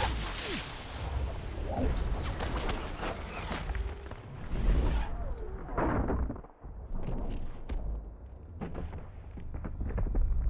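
Film explosion sound effects: a loud blast dying away at the start, followed by a string of sharp cracks and impacts over a low rumble that grow sparser in the second half.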